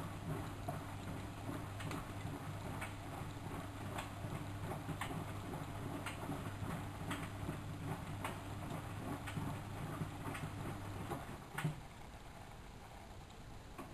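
Miele W763 washing machine turning its drum: a steady motor hum with a short knock about once a second. The hum stops with a louder knock towards the end, leaving the machine quieter.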